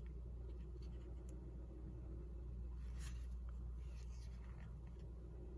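Faint rustle of a picture book's paper page being turned, loudest about three seconds in, over a steady low hum.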